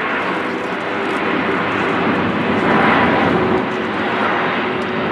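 Jet noise from an Airbus A380's four turbofan engines during its airshow display: a loud, steady rushing sound that swells briefly about three seconds in.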